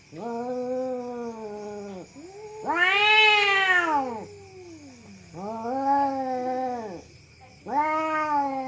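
Domestic cat yowling: four long, drawn-out wails, each rising and then falling in pitch, the second one the loudest and highest.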